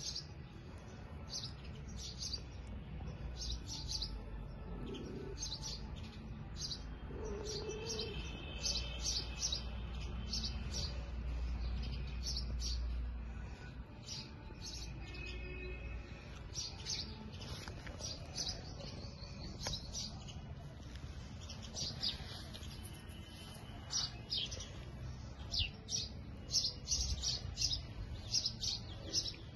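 Birds chirping: short, high chirps repeated a few times a second, over a low rumble that is stronger in the first half and fades out about halfway through.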